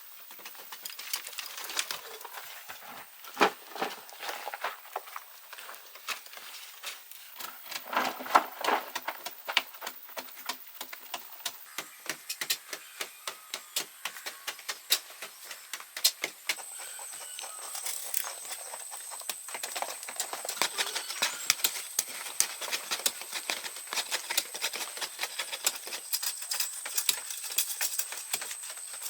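Hand tools knocking and tapping in an irregular series of sharp strikes, which come quicker and closer together in the second half.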